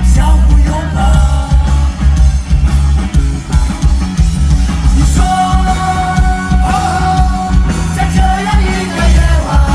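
Live rock band playing loud, with a heavy bass line and drums under a sung vocal, and long held notes in the second half.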